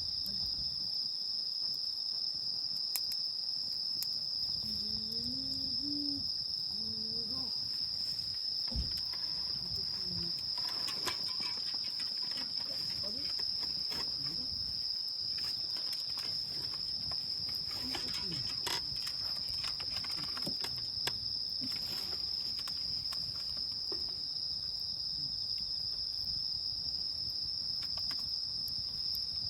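A chorus of crickets chirring in one steady high band, with scattered sharp crackles and pops from a wood campfire and faint voices in the distance.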